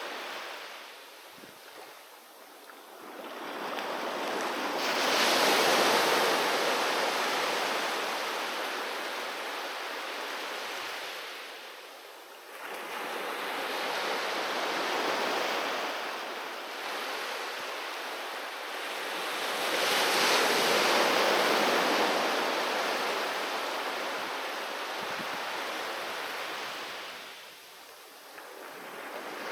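Sea waves breaking on a beach and washing back, three big surges that swell and fade with quieter lulls between.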